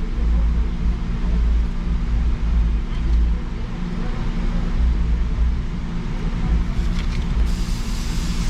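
Low, steady engine and road rumble of a 2016 Jeep Wrangler Rubicon heard from inside its cabin, with a constant low hum. A high hiss comes in near the end.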